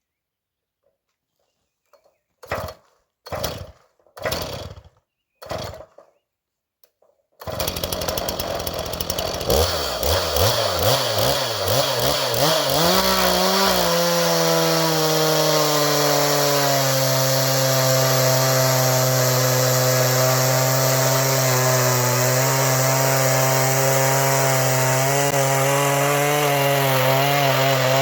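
Two-stroke chainsaw: five short sputtering bursts, then the engine catches about seven seconds in and runs continuously. Its pitch wavers for several seconds, then holds steady at high speed as it saws through a log on a milling frame, the pitch dipping slightly now and then with the load.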